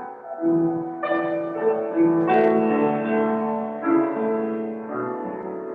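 Piano playing slow sustained chords, a new chord struck about once a second.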